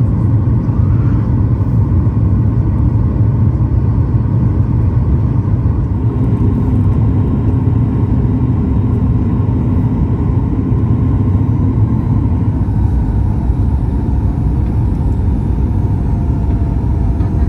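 Steady low rumble inside the cabin of a Boeing 737-9 MAX on final approach: the CFM LEAP-1B engines and airflow over the fuselage, with a few faint steady tones joining in about a third of the way through.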